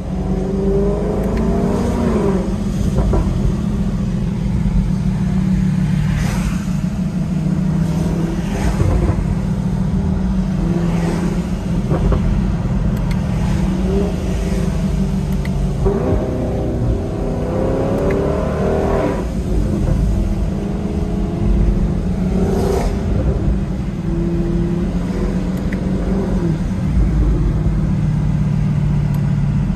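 Chevrolet Camaro SS V8 engine being run up through the gears with the paddle shifters: the revs climb and drop several times, with a sharp crack at each shift over a steady low exhaust rumble.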